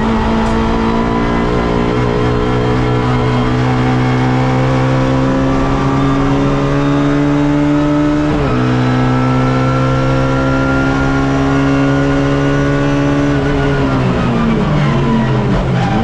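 Suzuki Swift race car engine heard onboard under full throttle. The revs climb steadily, drop sharply at an upshift about halfway through, and climb again. Near the end the driver lifts off and the revs fall and waver as the car slows and changes down.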